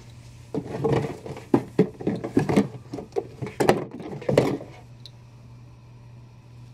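Hands handling a boxed resin statue and its packaging: an irregular run of knocks, clicks and rustles, starting about half a second in and stopping at about five seconds.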